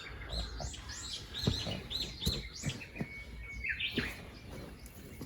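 Small birds chirping: rapid runs of short, high chirps, with one longer held note about three seconds in.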